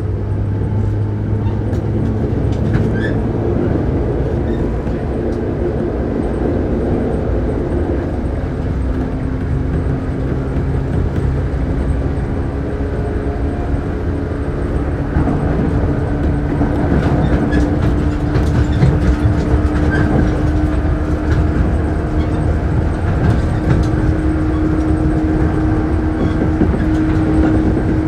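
A Shinano Railway 115 series electric train running, heard from inside the car. The traction motor hum rises slowly in pitch as the train gathers speed, over a steady rumble of wheels on rail with a few clicks.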